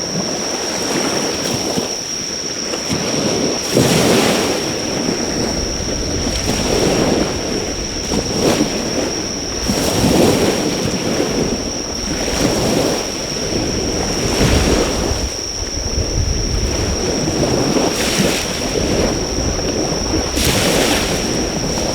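Sea waves washing onto the shore in rolling swells every couple of seconds, with a few brief hissing surges. Insects sing a continuous high-pitched note over it.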